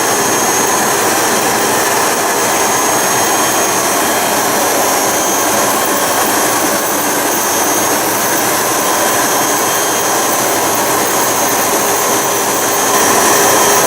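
An ASL RT3 concrete floor grinder and its attached 220V dust vacuum running steadily, a loud even machine noise with a thin high whine, as the grinder is driven by remote control. It gets a little louder near the end.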